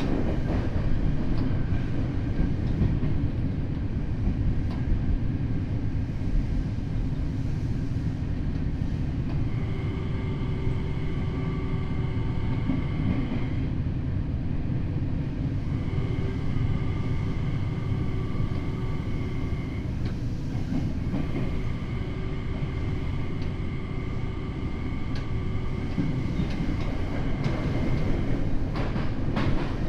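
Tokyo Metro 7000 series subway car running at speed, heard from inside: a steady rumble of wheels on rail with some clickety-clack. Sets of steady high tones come and go in three stretches, and a few sharp clacks come near the end.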